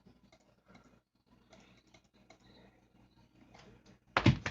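Near silence with faint scattered clicks, then a short, louder noise about four seconds in.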